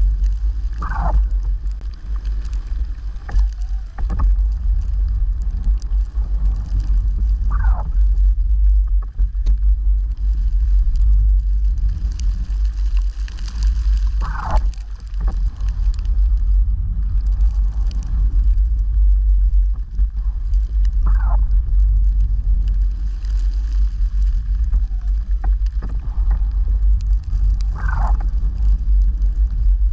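Engine of a snow-clearing vehicle running with a steady low rumble, with a short falling squeal that repeats about every seven seconds.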